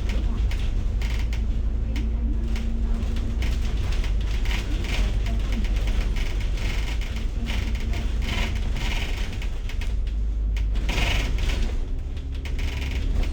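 Inside a moving bus: a steady low engine and road rumble with frequent rattling and clicking of the bus's fittings, and at times a faint steady whine from the drivetrain.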